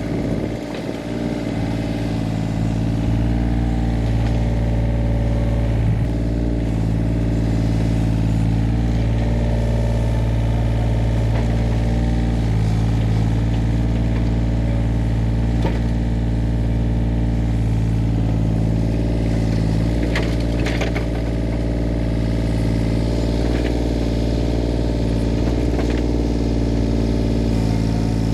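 Engine running steadily at a constant speed, with a few faint clanks about two-thirds of the way through.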